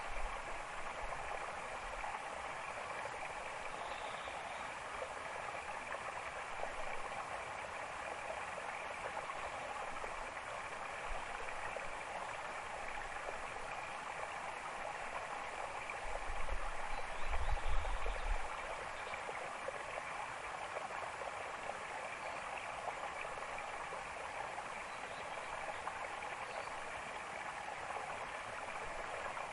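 Steady rushing of a forest stream, with a brief low rumble a little past halfway through.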